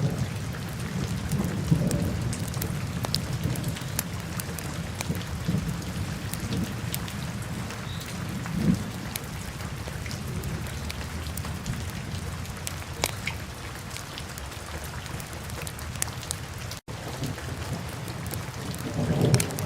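Wood fire burning in a fireplace: many small crackles and pops over a steady low rumble of the flames. The sound cuts out for a split second near the end.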